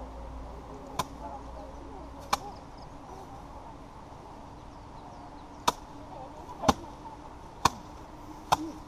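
Paddy being threshed by hand: bundles of rice stalks struck hard, six sharp strikes at uneven gaps, with faint voices in the background.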